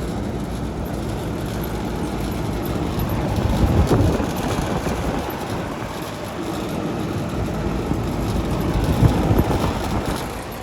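Lennox commercial central air conditioner condenser running steadily: outdoor fan and compressor, a little bit rattly. It swells louder briefly about four and nine seconds in.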